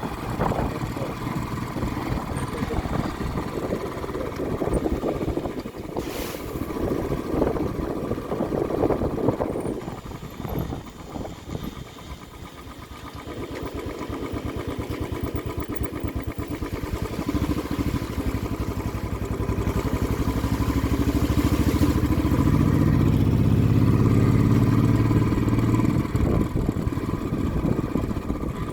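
Vehicle engine running on the road, with a deeper pitched engine note that swells in the second half and eases off near the end.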